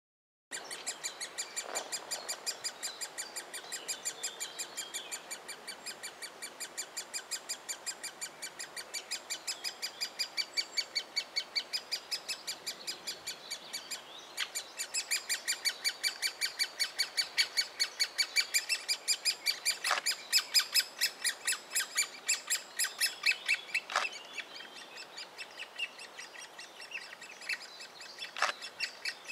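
Great spotted woodpecker nestlings begging from the nest hole: a continuous chatter of rapid, high-pitched calls, about five a second, louder in the second half as the young are fed. A few sharp knocks are heard, at about two, twenty, twenty-four and twenty-eight seconds in.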